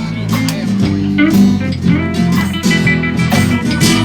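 Live band playing an instrumental stretch of a minor-key blues tune, with guitar to the fore over bass and a steady beat.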